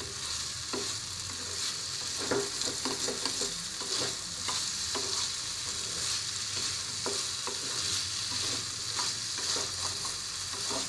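Diced purple yam (pendalam dumpa) sizzling in oil in a metal frying pan as a spatula stirs it, with irregular scrapes and clicks of the spatula against the pan.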